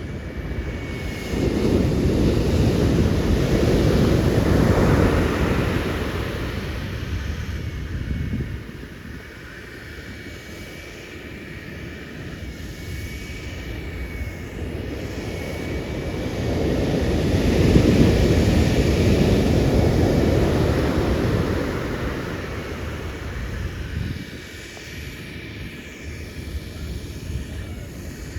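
Large ocean waves breaking on the shore: two long surges of rumbling surf, one early and one about two-thirds of the way through, each building and fading over several seconds.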